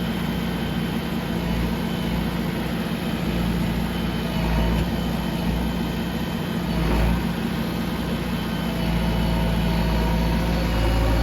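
Heavy diesel engine running steadily, a little louder near the end.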